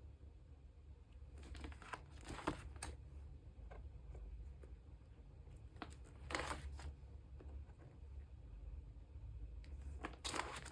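Plastic photocard and binder sleeves rustling and crinkling as cards are handled, in three short bursts, over a steady low hum.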